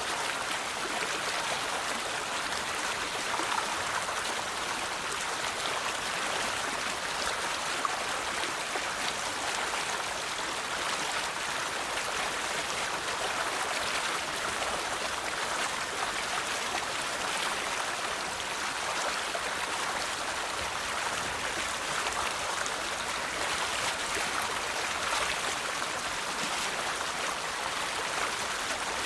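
A river's flowing water: a steady rush of running water with fine splashing and trickling throughout.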